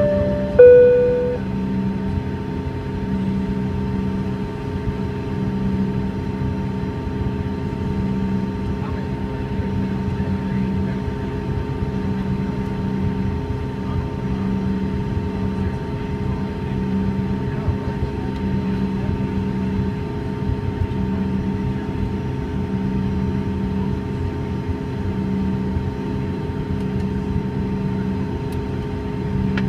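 Two-tone high-low cabin chime near the start, then the steady cabin noise of a Bombardier CRJ-200 taxiing, its rear-mounted GE CF34 turbofans at idle with a constant whine and a low hum that pulses about every second and a half.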